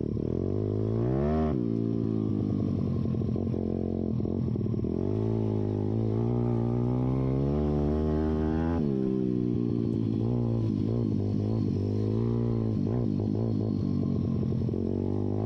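YCF pit bike's four-stroke single-cylinder engine, spark arrestor removed, revving up and down while riding. The revs climb about a second in and again over several seconds, drop sharply about halfway through, then rise and fall quickly with the throttle.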